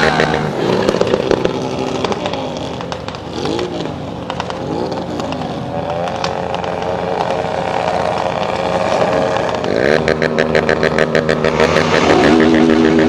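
Motorcycle engines running, with the revs rising and falling several times as they are blipped. The sound grows louder and busier near the end.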